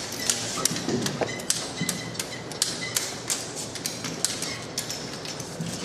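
Hand tools clicking and clinking on metal engine parts during assembly, in irregular sharp taps about two or three a second.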